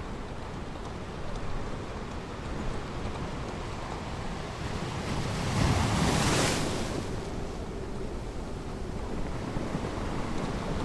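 Ocean surf washing on a beach, a steady rush of water with one wave breaking loudest about six seconds in.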